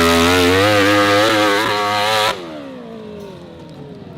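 Hill-climb motorcycle engine running at high revs with a wavering pitch; about two seconds in it cuts off abruptly and the engine note slides down as it winds down, which the commentator puts down to a mechanical problem.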